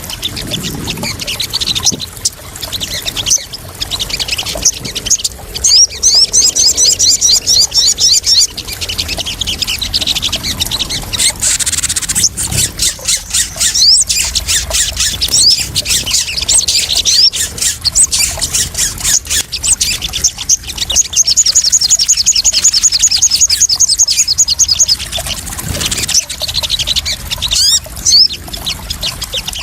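Sogon sunbird calling: loud, rapid trills of high repeated notes twice, with scattered sharp chirps between them, over a steady background of trickling, splashing water.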